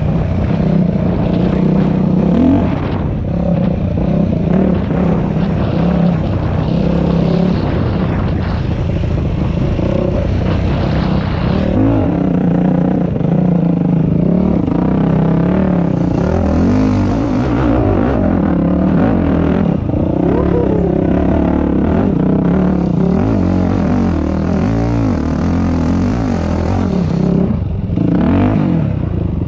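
Dirt bike engine running under load, revving up and down again and again as it is ridden along a trail.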